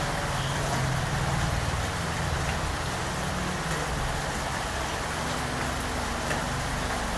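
Steady rain falling as an even hiss, with a low rumble underneath during the first few seconds.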